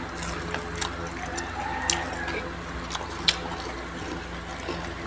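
Mouth-close chewing of crispy fried bean-sprout lumpia: a series of sharp, uneven crunches and mouth clicks, the loudest about three seconds in, over a steady low hum.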